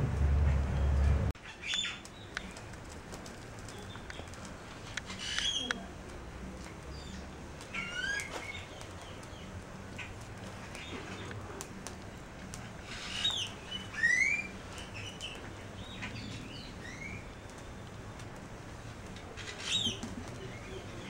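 A loud low rumble cuts off about a second in, leaving small birds chirping now and then: short rising calls, singly or in quick pairs, over a quiet background.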